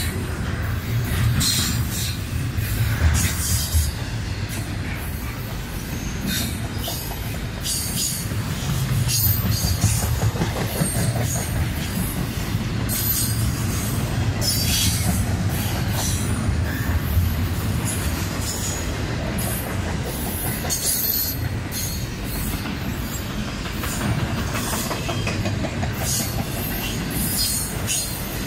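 Double-stack intermodal freight train's well cars rolling past close by: a steady low rumble of steel wheels on rail, with frequent short, high-pitched squeals and screeches from the wheels.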